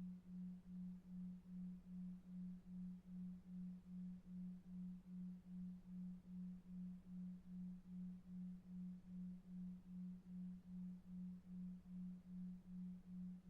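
Faint, synthetic low tone pulsing evenly about two and a half times a second, a 2.5 Hz delta-wave sleep beat, over soft brown noise.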